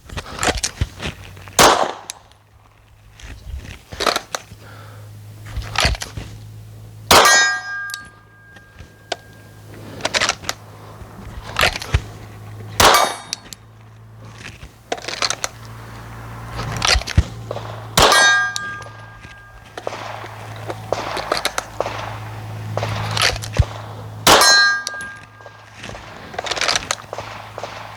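Single pistol shots drawn from the holster, about every five to six seconds, each followed by a metallic ringing of the kind a hit on a steel target plate makes. Fainter shots and clanks fall between them.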